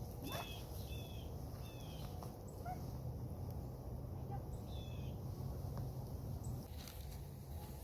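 A bird chirping: four short, high, hooked chirps, three in quick succession and one more about five seconds in, over a steady low background rumble.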